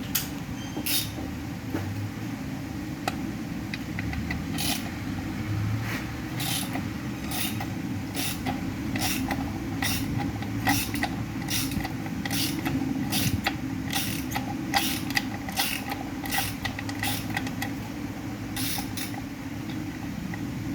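Metal hand tools working on a Ford 5R55S automatic transmission: irregular sharp metallic clicks and clinks, about one or two a second and bunched in places, over a steady low hum.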